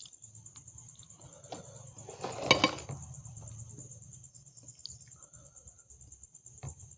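Close-miked eating sounds: soft chewing and mouth clicks, with one much louder wet burst of chewing about two and a half seconds in. A steady, finely pulsing high chirring runs underneath.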